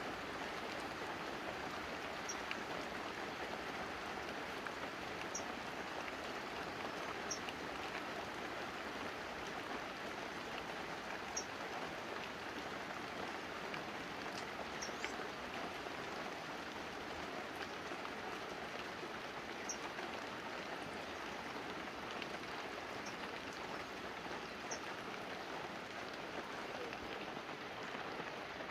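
Light, steady rain falling on banana leaves and a roof, with scattered single drips standing out now and then.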